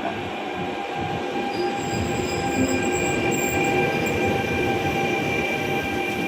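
A train passing through at speed without stopping: rolling stock rumbling, with a steady high-pitched metallic squeal from the wheels over the rails.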